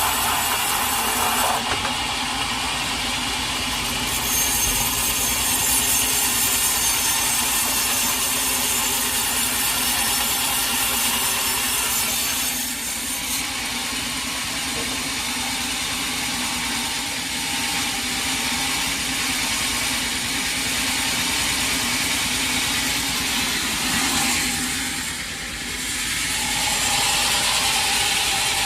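Sawmill saw cutting through a large teak log, a continuous machine sound with a brief dip near the end.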